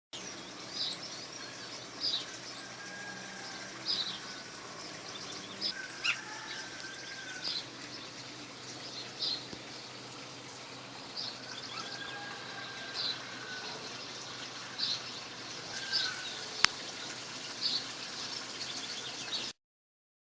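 A bird repeating a short, high chirp about every one and a half to two seconds, with fainter, lower drawn-out whistles from another bird now and then, over a steady background hiss. A single sharp click comes near the end, and the sound cuts off suddenly just before the end.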